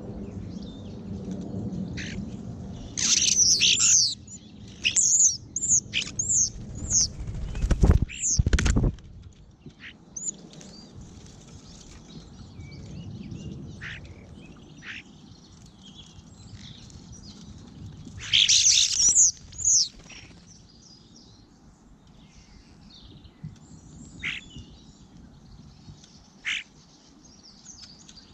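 Garden birds calling: two runs of loud, rapid, high-pitched calls with scattered short chirps between them. There is a brief low rumble about eight seconds in.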